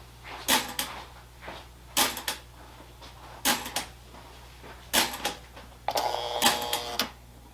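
Lionel toy train running on its track, its wheels clicking over the rail joints in small clusters about every second and a half, then a denser rattle with a faint buzz near the end.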